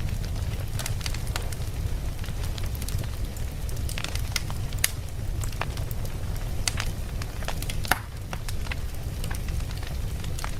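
Campfire crackling: irregular sharp pops and snaps of burning wood over a steady low rumble of the flames, with a louder pop about 5 seconds in and another about 8 seconds in.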